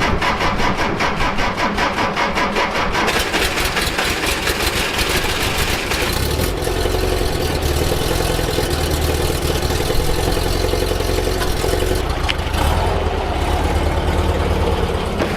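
Porsche 356's air-cooled flat-four engine running just after a cold start, a rapid, even beat that turns deeper about six seconds in.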